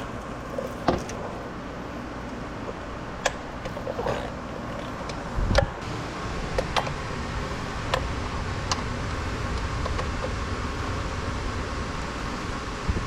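Scattered clicks and knocks of hand tools and parts being handled during spark plug and ignition coil work, with one heavier thump about five and a half seconds in, over steady background noise.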